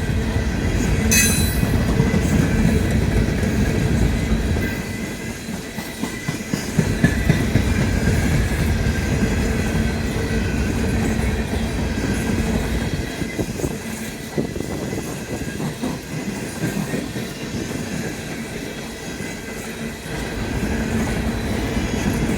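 Empty coal train's hopper cars rolling past: a steady rumble with wheels clacking over rail joints and a thin, steady wheel squeal. A short high screech comes about a second in, and a cluster of louder clacks follows a few seconds later.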